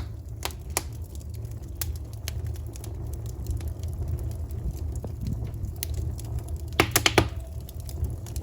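Wood fire burning, with scattered crackles and sharp pops over a low steady rumble of the flames; a quick cluster of four or five loud pops comes about seven seconds in.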